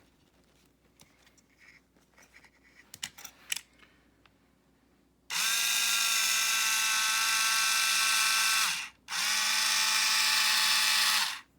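Small battery-powered electric motor of a CaDA LEGO-compatible toy car, driven from a phone app over Bluetooth, whirring at a steady pitch in two runs: one of about three and a half seconds, then, after a brief pause, one of about two seconds. A few light clicks come before the first run.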